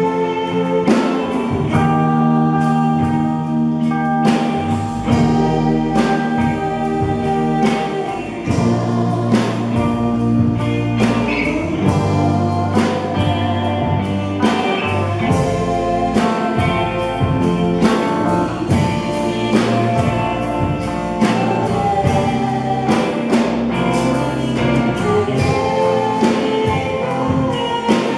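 Church worship band playing a praise song, with guitar, drum kit and held chords over a steady beat.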